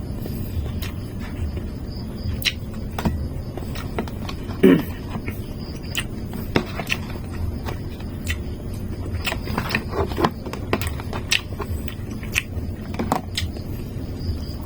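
A person eating fried chicken: scattered clicks and mouth sounds of chewing, over a steady low rumble. There is one louder short sound about five seconds in.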